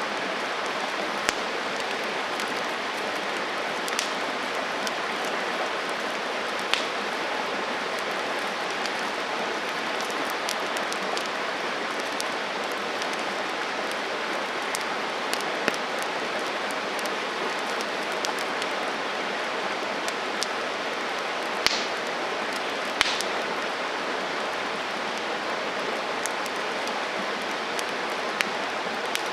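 Campfire burning: a steady hiss of flame with scattered sharp crackles and pops, two of them louder about three quarters of the way through.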